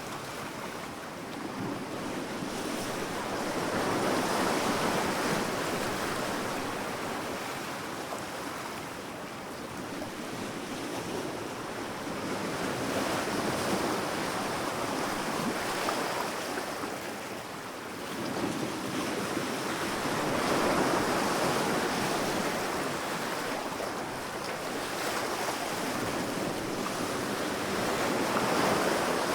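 Sea waves breaking and washing onto a sandy beach, swelling and fading in slow surges every several seconds, with a light wind.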